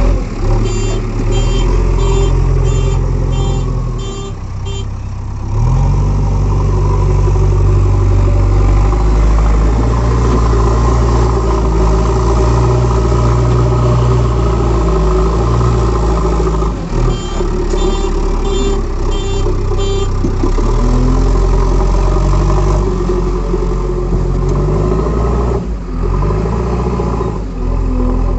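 Diesel engine of a JCB 3DX backhoe loader working under load, its pitch rising and falling as it revs up and settles back. Two spells of high-pitched beeping from an alarm, about two beeps a second, sound over it near the start and past the middle.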